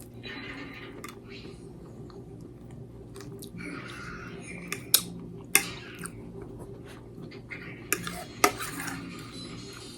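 Cutlery scraping and clinking against a plate while eating, with four sharp clinks in the second half.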